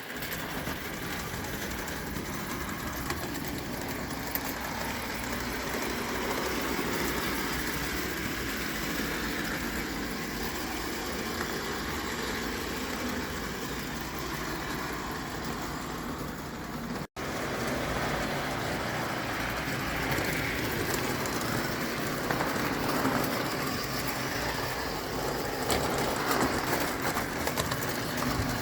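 Vintage 0 gauge live steam tinplate model locomotive running, with a steady hiss and mechanical rattle. The sound drops out for an instant about two-thirds of the way through.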